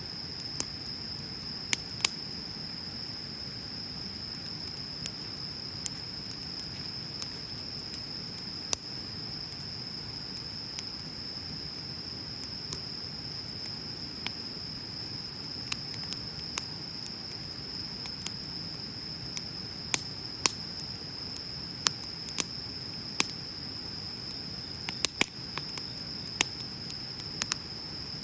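Wood bonfire crackling, with irregular sharp pops scattered throughout over a low steady hiss of burning. Behind it runs a steady high-pitched insect trill, likely crickets.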